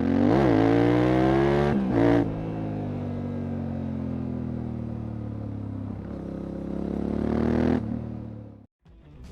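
Yamaha Ténéré 700's parallel-twin engine through an Akrapovič exhaust, blipped quickly twice in the first two seconds, then running steadily with its pitch sagging slowly and rising again, before cutting off abruptly near the end.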